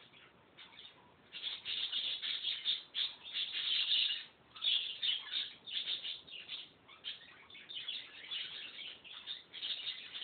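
Small birds chirping and twittering in irregular stretches, starting about a second in, with brief pauses.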